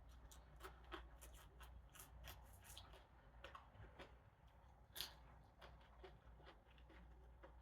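Faint eating sounds close to the microphone: chewing crispy fried fish, with many small irregular crunches and clicks and one sharper click about five seconds in.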